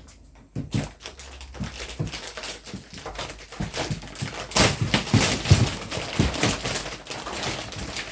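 Plastic wrapping on a vacuum-packed mattress being ripped and crinkled by hand, with irregular crackles and dull handling thumps that are loudest around the middle of the stretch.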